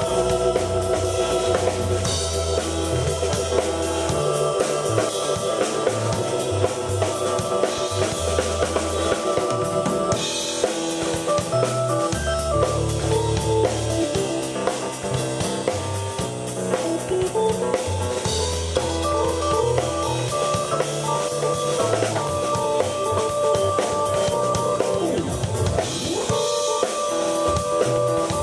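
Live rock jam on keyboard and drum kit. Organ-like keyboard chords and a low bass line play over a steady drum beat.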